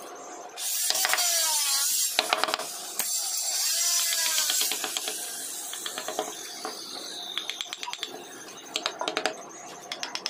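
Carving tool working wood: two loud scraping, hissing bursts of a second or two each, then a run of rapid, even clicks near the end.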